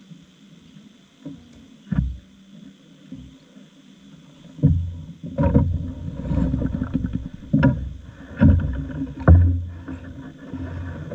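Water sloshing and knocking against a small boat on a river, quiet at first, then a run of irregular thumps over a low rumble from about four and a half seconds in.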